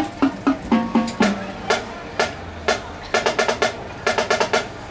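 Marching band percussion playing a rhythmic pattern of sharp drum strikes, some single and some in quick clusters, with a few short pitched low notes in the first second.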